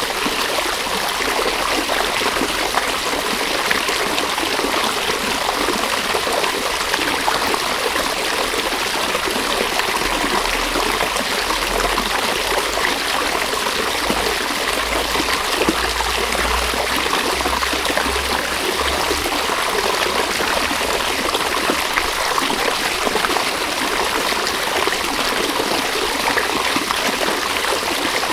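River water flowing steadily, a continuous even rush and babble with no let-up.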